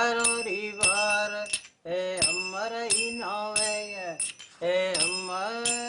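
A man chanting a melodic song, his voice gliding up and down in long phrases, with small metal bells or cymbals struck in a steady beat about every two-thirds of a second.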